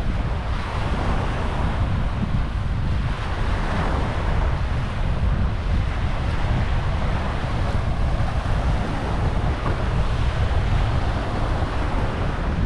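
Wind buffeting the microphone with a steady low rumble, over the wash of surf on the beach.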